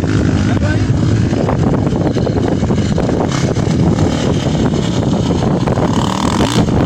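A motor vehicle engine running steadily and loudly, with no clear pass-by rise or fall.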